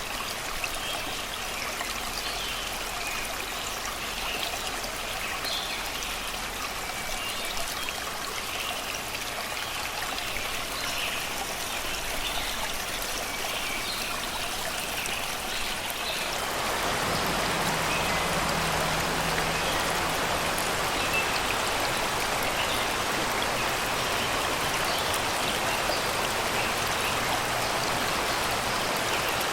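Shallow river flowing and babbling over rocks and stones, with birds chirping in the background. About two thirds of the way through, the water becomes louder and more rushing.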